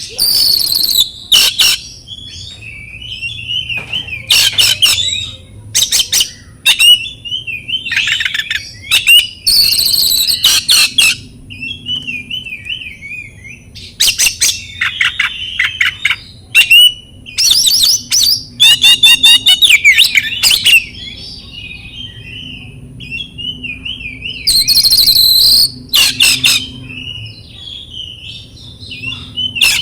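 Oriental magpie-robin singing: loud bursts of varied whistled phrases and fast trills come every few seconds, with a softer wavering warble in between.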